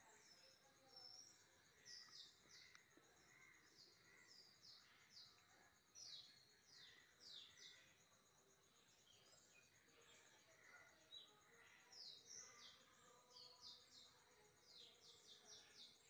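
Faint bird chirps: short, high notes that fall in pitch, coming in quick clusters every second or two over a steady background hiss.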